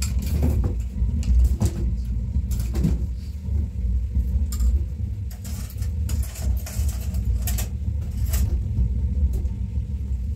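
Steady low rumble with scattered knocks and clicks.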